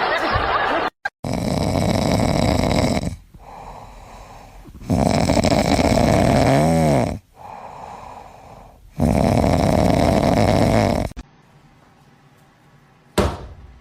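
A cat snoring loudly: three long rasping snores about four seconds apart, with quieter in-breaths between. A short whistling note wavers through the middle snore, and a brief sharp sound comes near the end.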